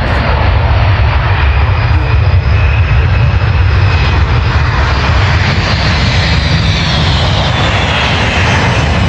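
Jet aircraft passing, a loud steady rumble under a high engine whine that slides down in pitch in the second half and begins to rise again near the end.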